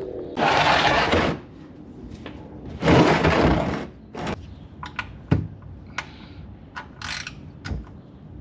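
Camera and microphone being handled and set up: two rushes of rubbing noise about a second each, then scattered clicks and knocks.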